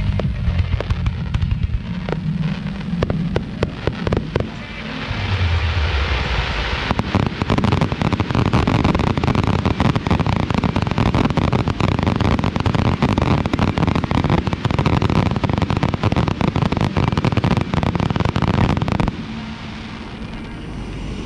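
Fireworks display: scattered bangs and crackles at first, then from about five seconds in a dense, continuous barrage of rapid bursts and crackling that cuts off abruptly near the end.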